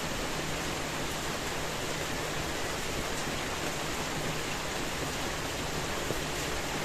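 Steady, even rainfall with no separate drops or thunder standing out, and a faint low hum coming and going beneath it.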